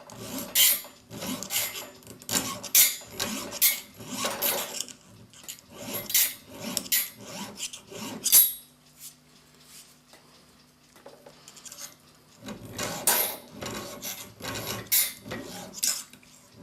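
A very fine hand file rasping across the steel of a clock mainspring end held in a vise, in repeated short strokes. The strokes stop for about four seconds midway, then start again.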